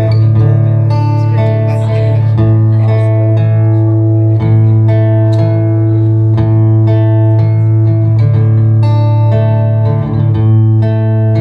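Acoustic guitars strumming chords in an instrumental passage with no singing, loud and steady, the chords changing every second or so over a held low note.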